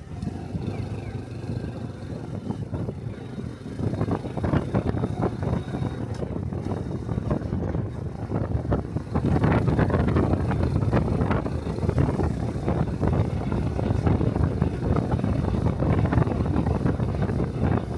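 Small single-cylinder Honda Cub motorcycle engine running while riding, with wind and road noise on a body-worn microphone. The sound gets louder about four seconds in and again about nine seconds in.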